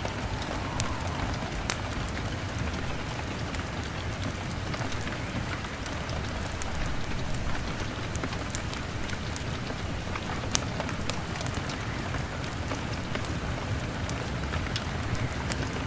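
Steady heavy rain on a window pane, with many short sharp ticks and pops scattered through it from the drops and from a crackling log fire.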